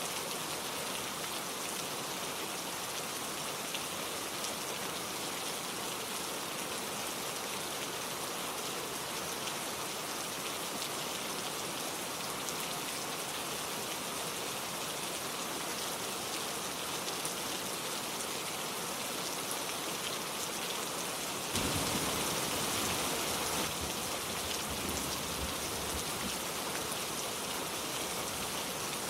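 Steady gentle rain falling, an even hiss of many drops with no thunder. About three quarters of the way in, the sound abruptly turns deeper and fuller, louder for a couple of seconds, then settles again.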